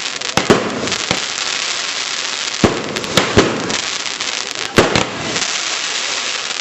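Home-made fireworks going off: a steady crackling hiss broken by sharp bangs, about eight in irregular clusters.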